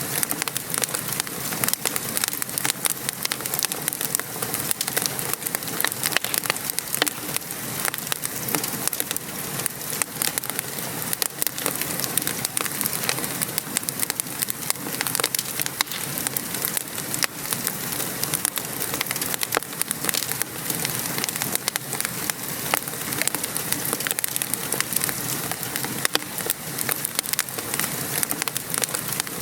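Wood fire crackling with many small sharp pops over a steady hiss of rain falling.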